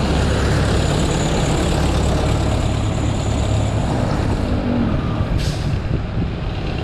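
Wind rushing over the microphone of a camera on a moving road bike, a steady low rumble mixed with road and traffic noise. A short hiss comes about five seconds in.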